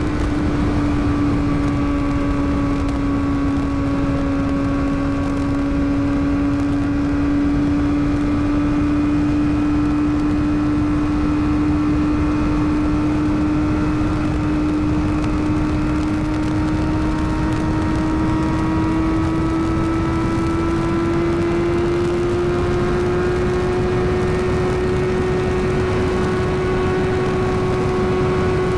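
Yamaha YZF-R6 inline-four engine running at steady cruising revs while riding, over a constant low rush of noise. The pitch dips slightly, then climbs a little past two-thirds of the way through as the revs come up gently.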